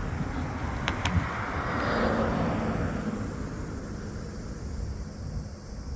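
A motor vehicle passing by, its noise swelling to a peak about two seconds in and then fading away. Two short clicks sound about a second in.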